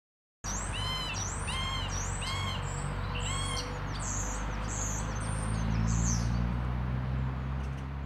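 Bird calling. A slow series of four nasal, arched calls comes about a second apart, then quicker high-pitched notes, over a steady rushing background noise.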